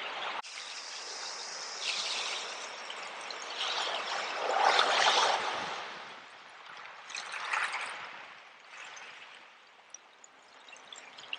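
Sea waves washing in and drawing back in a few swells, the biggest about four to five seconds in, then easing to a softer hiss near the end.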